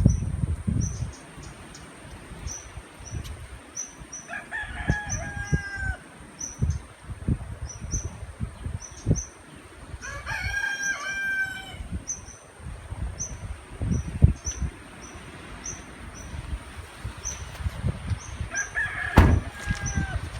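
A rooster crows three times, each crow lasting about two seconds, while strong typhoon wind buffets the microphone in low rumbling gusts. Short, high chirps repeat steadily in the background.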